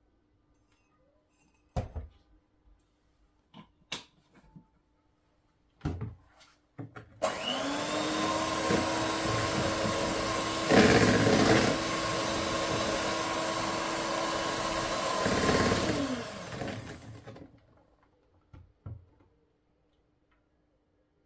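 An electric kitchen appliance's motor running for about ten seconds with a steady whirr, spinning up at the start, louder for a moment around the middle, and winding down at the end. A few short knocks and clinks come before it.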